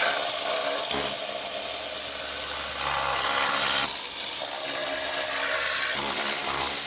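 Steady, loud hiss of a spray cleaning the back of the engine around the rear main seal, after the transmission has been removed. The spray does not let up.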